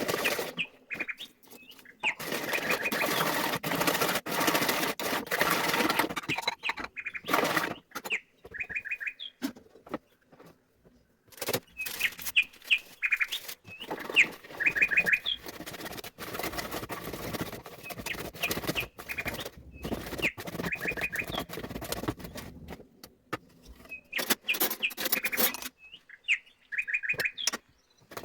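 A small bird chirping in short quick groups of three or four notes, repeated every few seconds, over stretches of irregular rustling and clicking noise.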